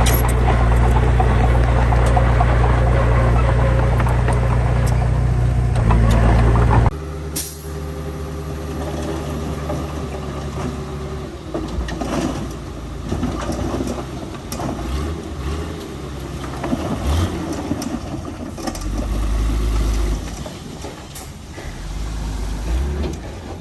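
Heavy diesel machinery engine running loud and steady, then about seven seconds in the sound drops abruptly to a quieter engine running unevenly, rising and falling, with a few knocks.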